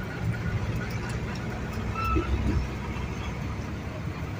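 Large vehicle engine running at low revs, a steady low rumble.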